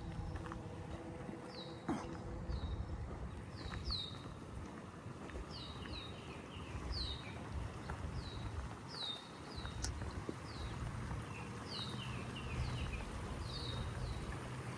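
Songbird calling over and over with short, high, downward-sliding notes, about one a second, with a few quieter, lower chirps mixed in, over a steady low background rumble.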